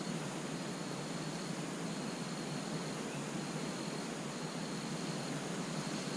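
Steady outdoor hiss with a faint high-pitched tone that keeps cutting in and out.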